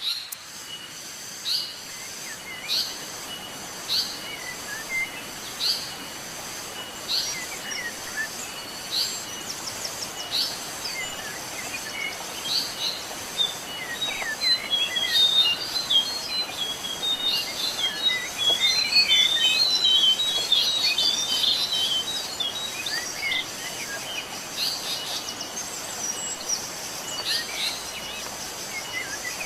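A bird calling: short, high notes repeated about once a second, breaking into a louder stretch of rapid chirping and twittering midway, over a steady background hiss.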